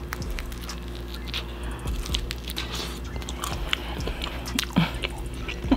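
Close-up mouth sounds of a person biting and chewing crispy homemade pizza, with small irregular crunches.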